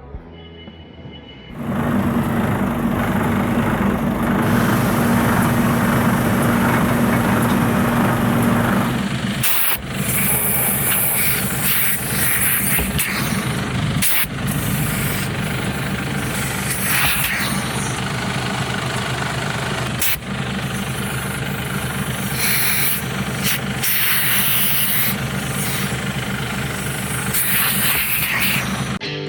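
Heavy truck's diesel engine running steadily. It comes in suddenly about a second and a half in and changes note about nine seconds later. Several sharp clicks or knocks sound over it.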